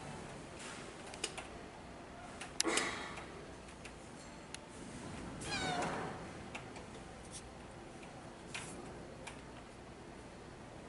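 A cat meows twice: a short call about two and a half seconds in, and a longer one, bending in pitch, near the middle. Behind it runs a steady patter of rain with scattered sharp ticks of drips.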